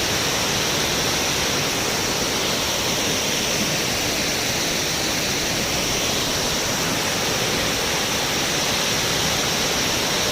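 Waterfall pouring steadily: a loud, even rush of falling water that does not change.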